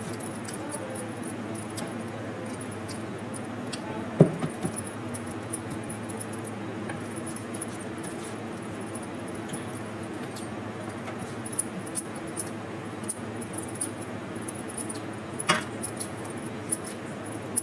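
Small clicks and clinks of eating a meal, with two louder knocks about four seconds in and near the end, over a steady background hum.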